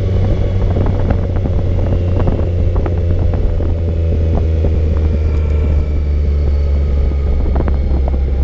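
Yamaha motorcycle engine running at a steady cruise, heard with a low wind rumble on the rider's microphone.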